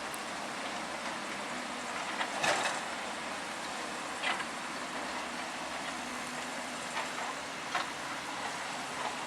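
Heavy machinery working: a steady mechanical noise broken by a few short metallic clanks, the loudest about two and a half seconds in.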